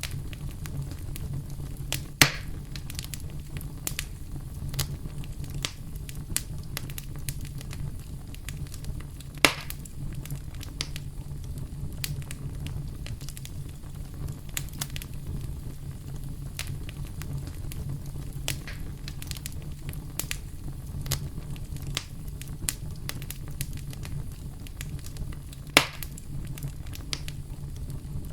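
Campfire crackling and popping over a steady low rumble of brown noise. Three pops stand out as much louder than the rest: about two seconds in, about nine seconds in, and about twenty-six seconds in.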